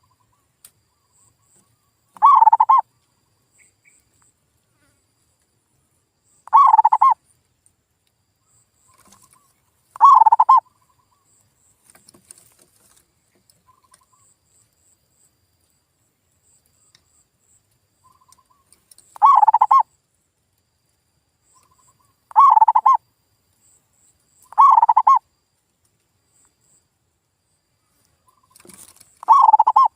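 Male zebra dove (perkutut) cooing in full song as a lure call: seven short coos of about half a second each, spaced unevenly a few seconds apart with quiet gaps between.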